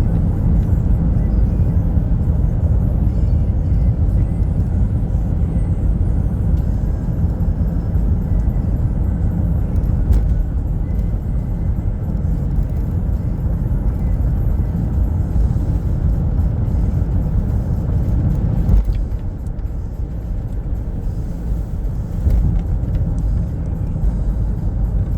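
Car driving: a steady low rumble of road and engine noise, dropping a little about 19 seconds in.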